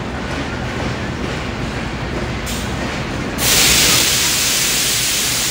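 Passenger train arriving at a platform, its coaches rolling past with a steady rumble. A loud hiss comes in suddenly about three and a half seconds in and holds.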